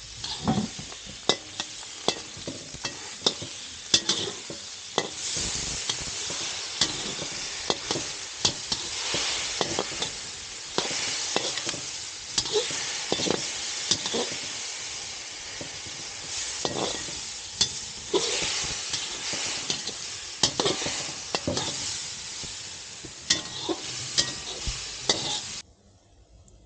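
Food sizzling as it fries in a hot pan, stirred with a utensil that knocks and scrapes against the pan many times. The sound cuts off suddenly near the end.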